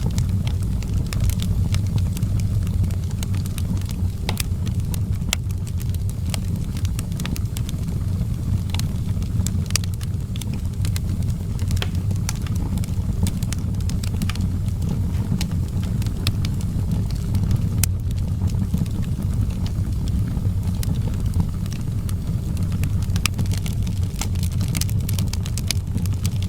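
Outdoor fireplace fire crackling, with frequent sharp pops and snaps scattered over a steady low rumble.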